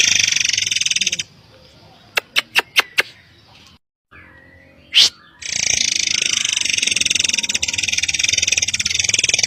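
Forktail (murai air) song from a lure recording: dense, rapid high chattering for about the first second, then a few sharp single notes and a loud sweeping call, with the fast chattering starting again about five and a half seconds in and running on.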